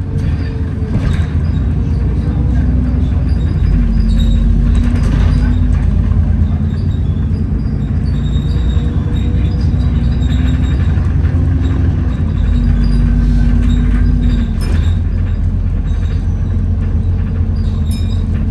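Inside an Alexander Dennis Enviro400 double-decker bus on the move: a steady, loud low drone from the engine and drivetrain, with a whine that shifts in pitch several times, the 'hoover' noise and loud axles this bus is known for.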